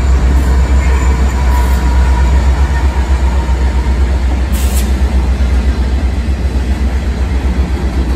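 Union Pacific freight train passing close by: diesel locomotives running and covered hopper cars rolling over the rails, a loud, steady low rumble.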